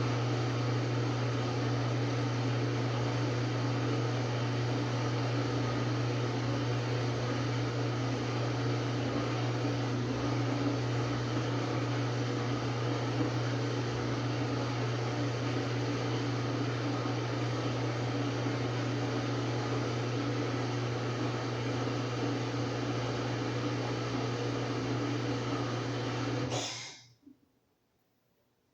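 Samsung WA45T3200AW top-load impeller washer running with a steady, strong hum and whir. The sound cuts off abruptly about two seconds before the end.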